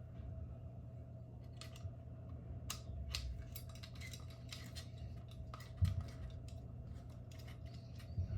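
Scattered small clicks and scrapes of metal parts being handled and worked with a screwdriver while a track light fixture is taken apart, with a dull knock about six seconds in and another near the end.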